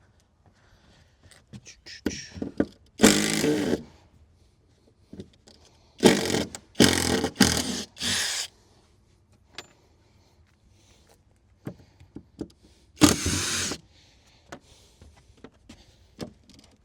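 Electric drill-driver running on deck screws in short bursts of about a second: once, then three in quick succession, then once more, with small clicks and knocks of handling between.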